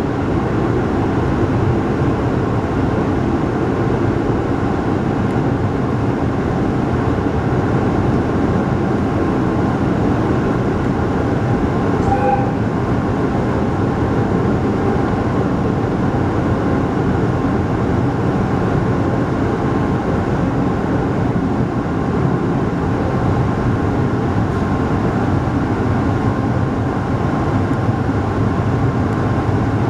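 Steady running noise inside a local electric train at speed: wheels on rail and the rumble of the car. There is a brief tone about twelve seconds in.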